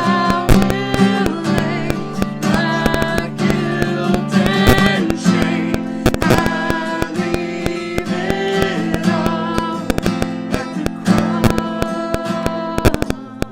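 A worship song: a voice singing a melody over strummed acoustic guitar chords.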